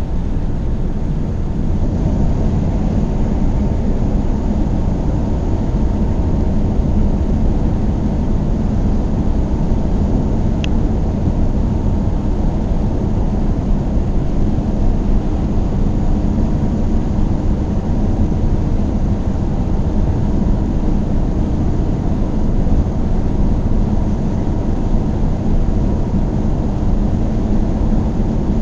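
Steady engine and road noise of a car driving at speed: an even low rumble that holds level throughout, with a single brief tick about ten seconds in.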